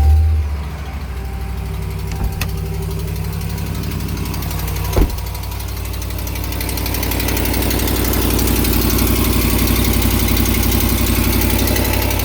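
2021 Ram pickup engine firing on a cold start and settling into a steady idle, with one sharp knock about five seconds in. It carries the exhaust-manifold leak noise that the owner says is much worse, mainly from the driver's side, despite new BD exhaust manifolds.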